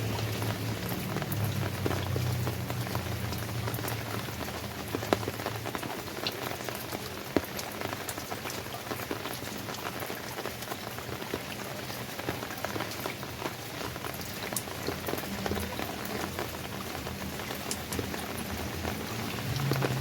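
Steady rain falling, with many single drops tapping and pattering close by and a couple of sharper drop hits about five and seven seconds in. A low hum sits under it at the start, fades through the middle and returns near the end.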